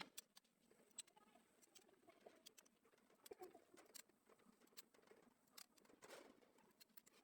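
Near silence: faint room tone with scattered faint ticks.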